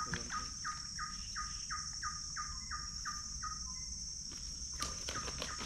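A bird calling a quick series of about a dozen short notes, each sliding down in pitch, roughly three a second, stopping about four seconds in. Under it runs a steady high-pitched insect drone.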